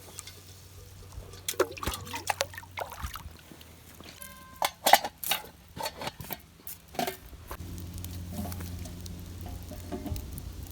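A metal camping pot being handled with water in it: scattered knocks and clinks, water sloshing and pouring, and a short metallic ring about four seconds in. From about seven and a half seconds a steadier low rushing noise sets in.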